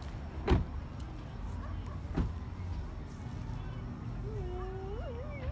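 Aerial fireworks bursting: a loud bang about half a second in and a fainter one about two seconds later, over a steady low rumble. Near the end a wavering, voice-like pitched sound begins.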